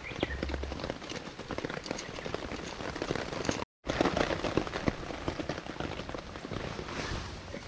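Steady rain pattering on a tarp overhead: a dense, irregular patter of drops, broken off for a split second about halfway through.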